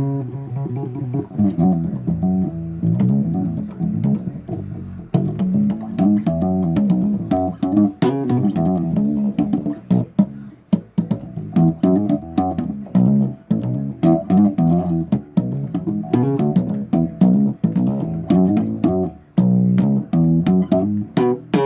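Bass guitar playing a busy riff of plucked low notes, with sharp string clicks between them.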